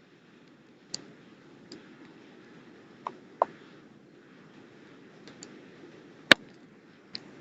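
Small campfire crackling: scattered, irregular sharp pops over a low steady hiss, the loudest pop about six seconds in.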